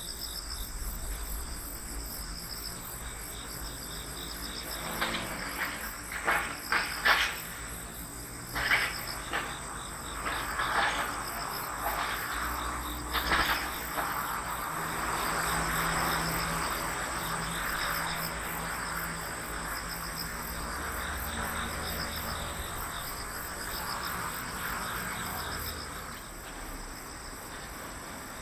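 Crickets and other autumn insects chirping steadily in high, rapidly pulsing trills. A run of short, sharp sounds comes about five to fourteen seconds in, then a broad rushing noise with a low hum underneath, which fades out near the end.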